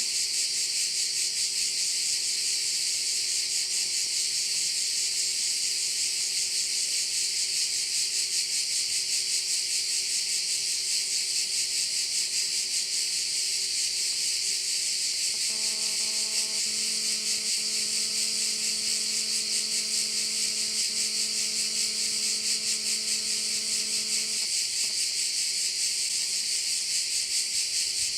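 Dense, continuous chorus of cicadas: a high, steady rasping buzz. Underneath is a faint low steady hum, joined about halfway through by a second faint droning tone that lasts around nine seconds.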